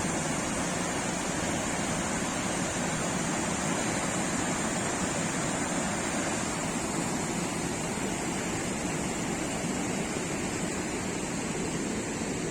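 Steady rush of flowing river water: an even, unbroken noise.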